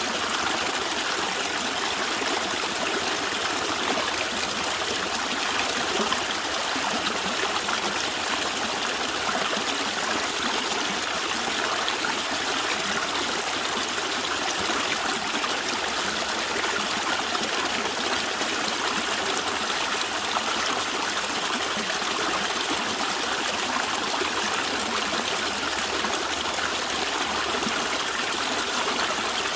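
A natural stream running and gurgling steadily over stones.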